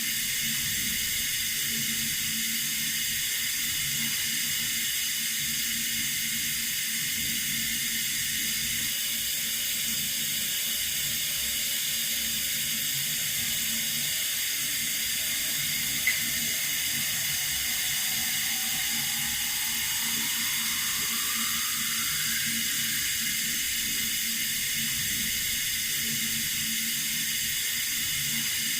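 Water running steadily from a tap, an even hiss that doesn't change in level. A faint rising tone comes in partway through, and there is one brief click about halfway.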